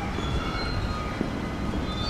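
A train running by with a steady rumble, thin high squeals from its wheels and small knocks.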